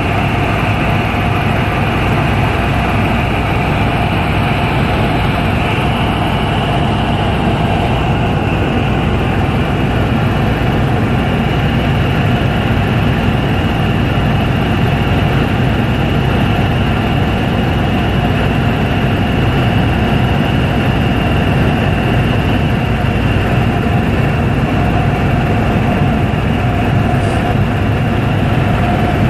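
Helicopter in flight: steady, loud engine and rotor noise with a constant high whine running through it.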